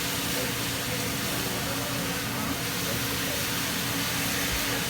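Steady mechanical hiss with a low droning hum, unchanging and with no distinct events.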